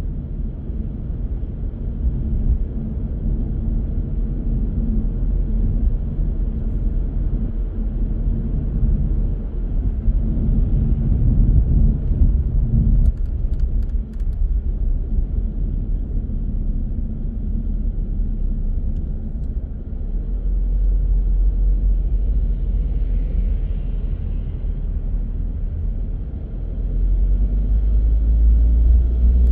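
Car being driven, a steady low rumble of engine and road noise. A few brief clicks come about thirteen seconds in, and the rumble grows louder near the end.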